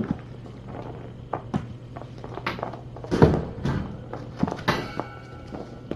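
Irregular light knocks, taps and thuds of kittens playing with toys, over a steady low hum.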